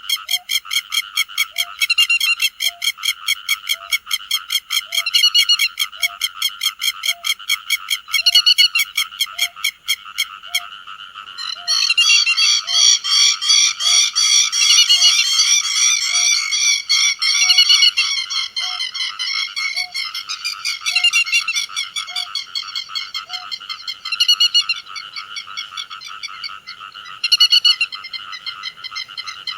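Grey-headed lapwings calling as a flock: shrill, repeated notes over a fast, continuous chatter, which thickens and gets louder about a third of the way in.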